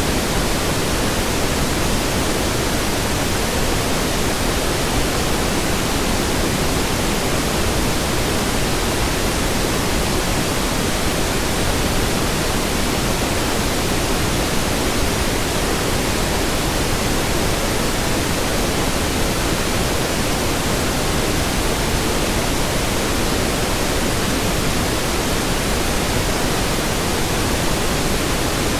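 Steady pink noise: an even, unchanging hiss with no tones or events.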